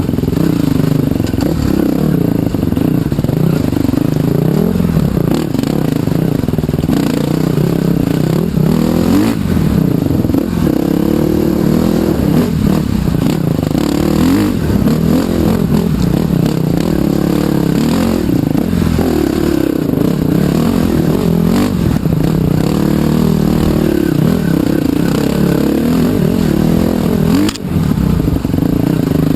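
Trail bike's motorcycle engine revving up and down continuously as it is ridden over a trail, with occasional knocks and rattles.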